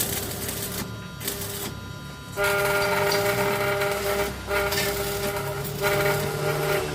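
Train horn sounding in three long, steady blasts, the first starting about two and a half seconds in.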